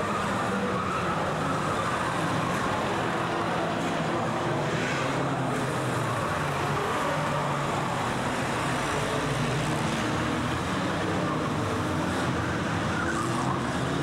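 Banger racing cars' engines running together as the pack laps an oval track, a steady mix of several engine notes that rise and fall as the cars accelerate and ease off.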